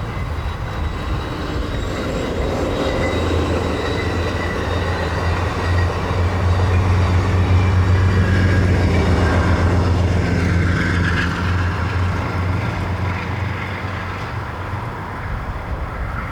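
A train passing: a low rumble that builds to its loudest about halfway through and then fades away.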